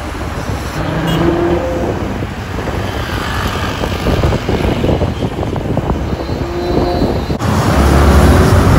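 Ferrari 812 Superfast's 6.5-litre V12 running at low speed among traffic, its note rising briefly a few times. After a cut near the end the engine is louder and deeper.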